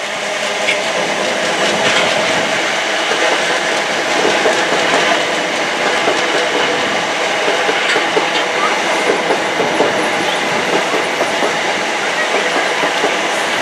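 A passenger train running past on the tracks below, a steady loud rumble of wheels on rail with occasional sharp clicks.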